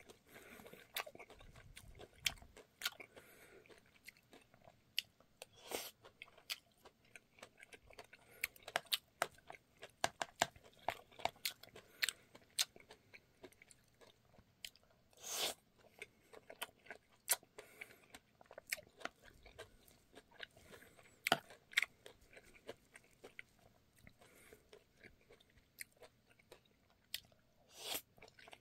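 Close-up chewing of ripe mulberries (oddi), with many small irregular clicks from the mouth throughout. A few louder clicks come about six seconds in, in the middle, and near the end.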